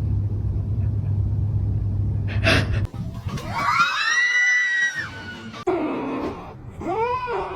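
A steady low hum that cuts off abruptly, then a cat's long, drawn-out meow, and a shorter meow near the end.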